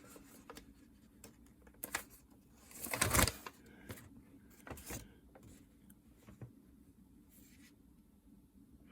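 Light handling noises on a workbench: scattered small clicks and rustles, with one louder rustle about three seconds in.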